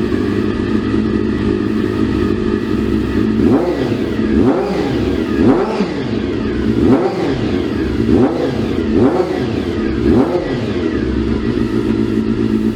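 Motorcycle engine running steadily, then revved in a series of quick throttle blips, its pitch rising and falling about once a second from a few seconds in.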